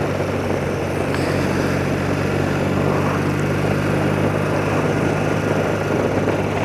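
Old BMW motorcycle engine running at a steady cruise, a constant low hum with an even rush of wind and road noise over it.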